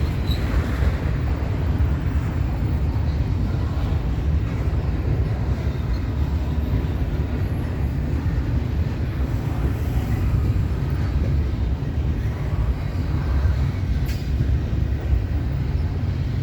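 Double-stack intermodal freight cars rolling past: a steady low rumble of steel wheels on the rails.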